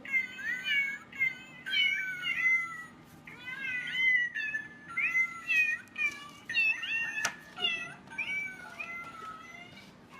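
Cat meowing over and over: a rapid run of short, high-pitched meows, about two a second, some overlapping.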